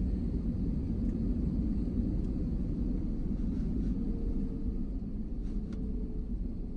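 Steady low rumble of a moving vehicle, with a faint steady hum and a few light ticks near the end.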